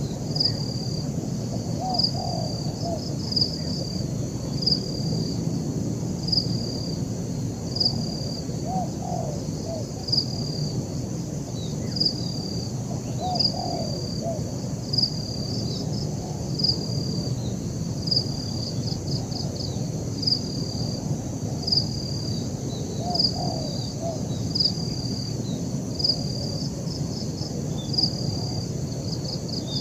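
Spotted dove cooing a few times with short, low, rising-and-falling phrases. Behind them a short high chirp repeats about every second and a half, over a steady high insect-like hiss and a low background rumble.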